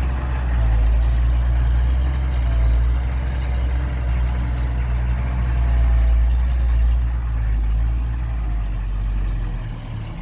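Heavy earthmoving diesel engine running steadily with a deep, low drone that swells and eases slightly.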